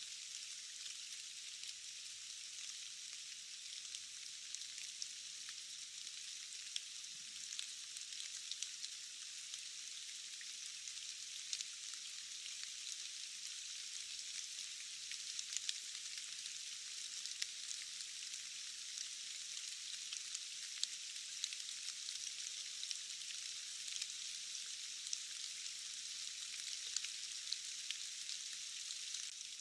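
Steady rain: an even, high hiss dotted with many sharp drop ticks, with no low rumble.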